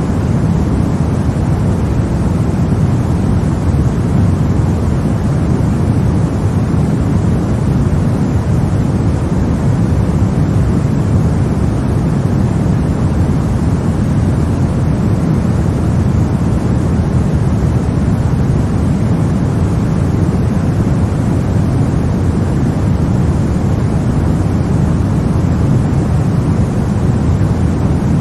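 Steady, unbroken white noise for lulling a baby to sleep: a deep rushing hiss, heaviest in the low end, with no changes or breaks.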